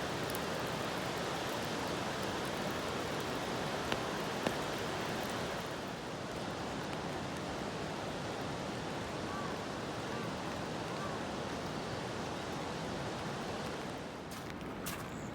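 Steady rushing water noise, with two sharp clicks about four seconds in and a few more near the end.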